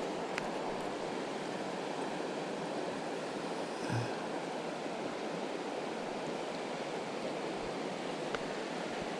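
River water rushing steadily, with a soft bump about four seconds in.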